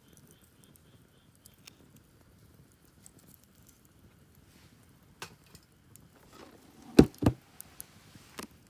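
Two sharp knocks about a third of a second apart, near the end, with faint scattered clicks around them.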